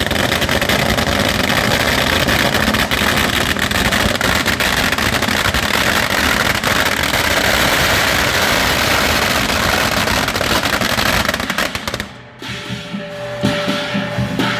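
A string of firecrackers going off in a dense, rapid crackle of bangs, which stops abruptly about twelve seconds in. Music follows.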